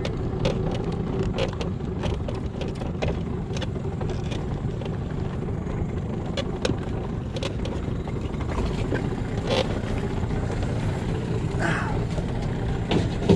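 Small boat's motor running steadily at low speed, with scattered light clicks and knocks.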